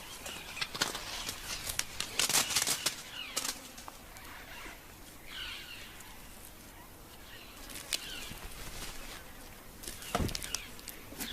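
White acacia branches shaken by a bull elephant, with seed pods and twigs rattling down onto dry ground and leaves rustling. The sound comes as scattered clicks and clatters, thickest in the first three seconds, with single knocks later on.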